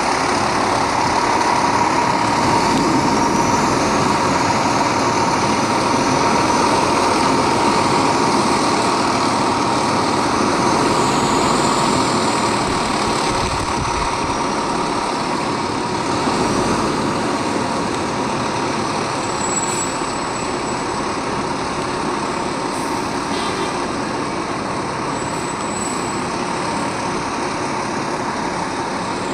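Fire truck engine running steadily, with a steady high tone over it.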